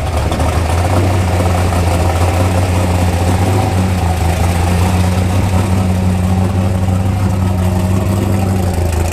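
A vehicle engine idling steadily with a deep, even hum and no revving.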